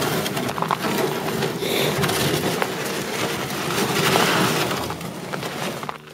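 Snow crunching and scraping, a continuous gritty crackle that lasts about six seconds and dies away near the end.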